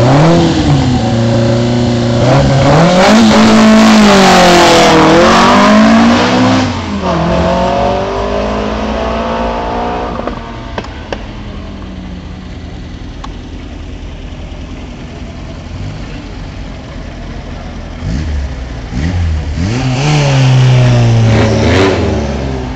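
Renault 8 Gordini's four-cylinder engine revved hard at the start line, then the car pulls away and its note fades up the road. Near the end a second rally car, a Citroën Visa Chrono, revs up loudly several times at the line.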